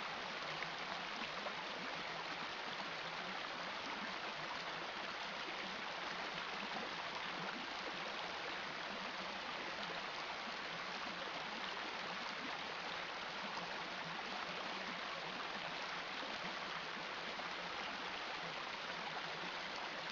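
A river running, a steady even rush of water that does not change.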